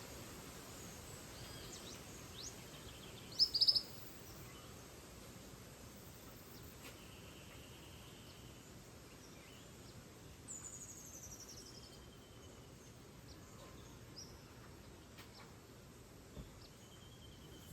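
Tropical rainforest dawn ambience: scattered bird calls over a steady background hiss. A loud, short call comes about three and a half seconds in, and a quick falling run of high notes about ten seconds in.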